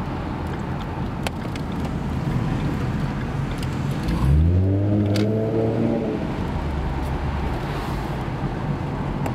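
2011 Ford Mustang's 3.7-litre V6 through a Roush axle-back exhaust, running with a steady low drone. About four seconds in the revs climb for a second or two under acceleration, then settle back.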